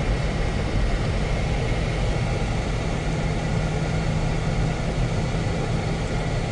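Steady low rumble of a car driving, engine and road noise heard from inside the moving car.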